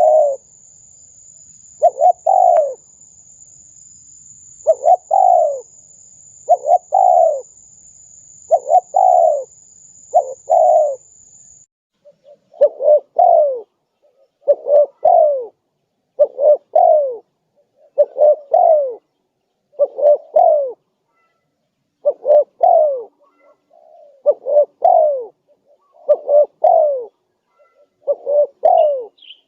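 Spotted dove (tekukur) cooing over and over, as on a lure recording. The short, down-sliding coos come about one every one to two seconds, often in close pairs. A faint high steady whine sounds under the first third and stops about twelve seconds in.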